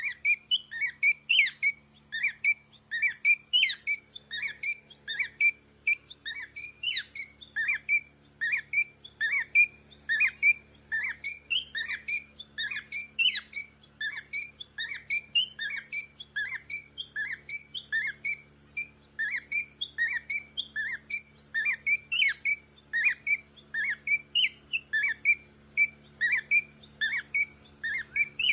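A bird giving short, high squeaky calls over and over, about two or three a second, without a break.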